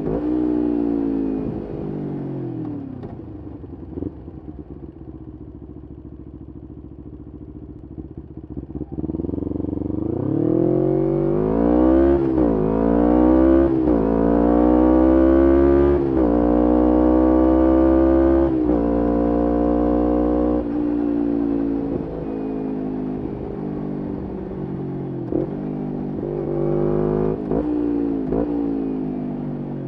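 2011 Kawasaki Ninja 250R SE's parallel-twin engine through a full Graves race exhaust. It first winds down to a low, quiet running note. About a third of the way in it accelerates hard through several gears, the pitch climbing and dropping at each upshift, then settles to a steady cruise and eases off near the end.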